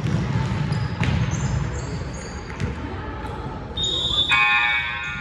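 Basketball bouncing on a gym floor with sneaker squeaks and voices. Near the end a steady high tone starts, then a loud buzzing horn sounds and holds.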